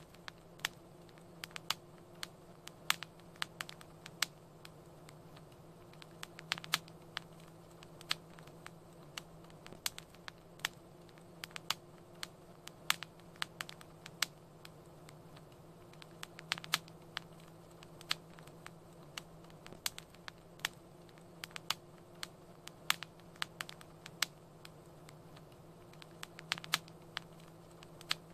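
Wood fire crackling in a fireplace: irregular sharp pops and snaps, several a second and some much louder, over a soft steady hiss.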